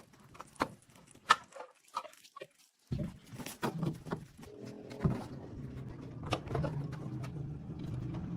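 Scattered light clicks and knocks, then a motor starts suddenly about three seconds in and runs with a steady low hum while knocks go on.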